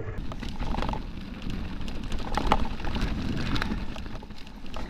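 Rocky Mountain Altitude mountain bike rolling down a dry, rocky trail: tyres crunching over loose rock, with frequent clicks and knocks of the chain and frame rattling over the bumps, over a steady low rumble of wind and rolling noise.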